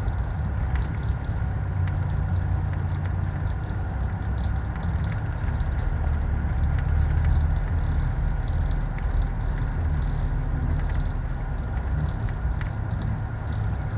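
Steady low rumble of a moving vehicle, with faint ticks and rattles.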